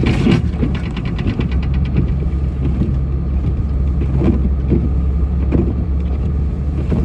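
Snow-plow truck's engine running steadily under load while plowing, heard from inside the cab, with a quick run of rapid clicking about half a second in.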